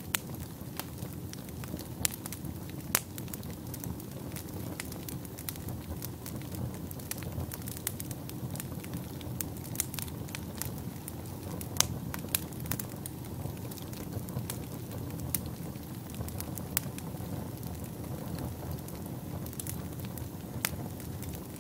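Wood fire burning in a fireplace: a steady low roar of flames with irregular sharp crackles and pops, a few louder pops standing out.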